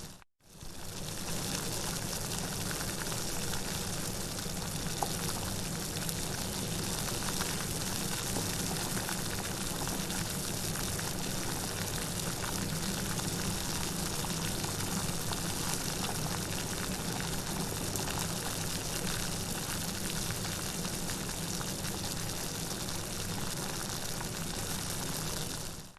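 Steady rain falling, a dense, even patter of drops with no thunder. The sound cuts out for about half a second at the very start, then fades back in.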